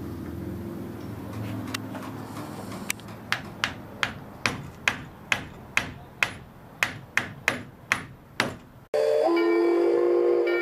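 Low rumble, then about a dozen sharp ringing hammer blows on metal, roughly two to three a second. Near the end it cuts suddenly to a steady, many-toned train horn.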